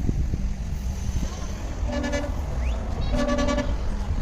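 A vehicle horn honks twice, two short toots about a second apart, the second a little longer, over a steady low street rumble.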